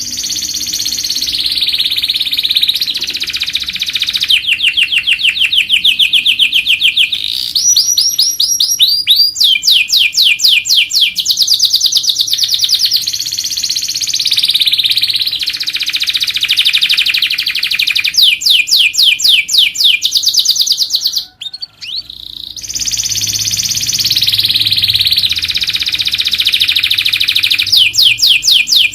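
Domestic canary singing a long, loud song of rapid trills, each a fast run of repeated notes, changing from one trill to the next, with a brief break about three-quarters of the way through.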